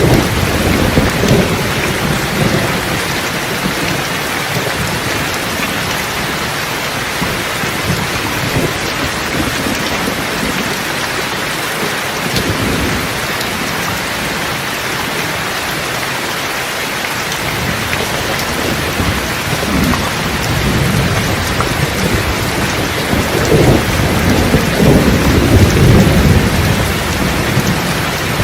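Steady heavy rain falling, with thunder rumbling low in the background, swelling near the start, briefly about midway, and more strongly in the last third.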